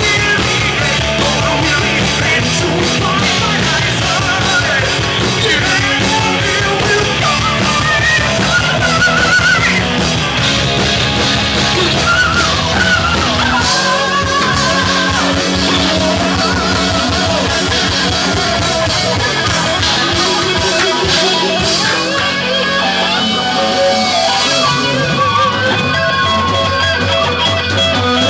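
Heavy metal band playing live: electric guitars over a steady drum beat.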